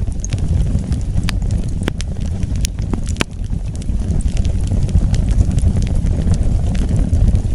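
Wood fire burning: a steady low rumble with irregular sharp crackles and pops, a few louder snaps among them.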